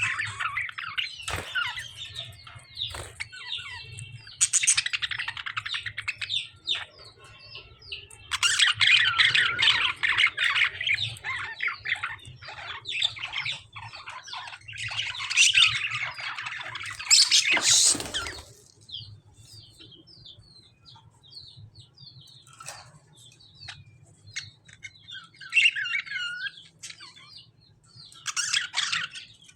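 Lovebirds and budgerigars squawking and chattering in harsh, dense bursts, as in a squabble between the birds, with a sharp crack at the loudest burst. Later the calls thin to scattered chirps with two short flurries near the end.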